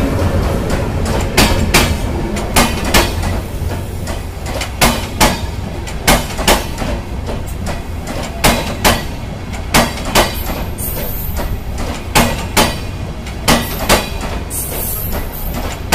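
Bangladesh Railway passenger coaches rolling past: wheels clicking over rail joints in pairs about every second and a bit, a steady clickety-clack over a low rumble.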